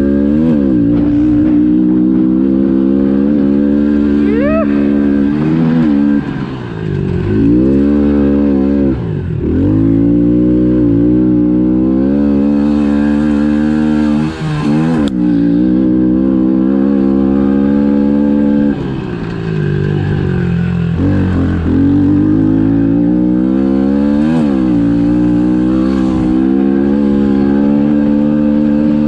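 A pit bike's engine running hard at high revs, the throttle chopped and reopened several times, so the pitch repeatedly drops sharply and climbs back, as when the rider backs off for jumps and corners on a dirt track.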